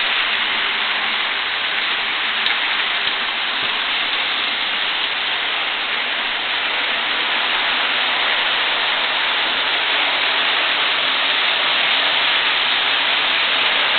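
Model electric trains running on the layout track: a steady whirring rush of wheels on the rails and locomotive motors, with no pauses or sudden events.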